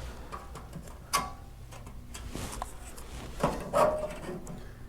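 Light handling clicks and knocks of a tape measure against sheet-metal body panels during a measurement, with the loudest about a second in and a cluster near three and a half seconds.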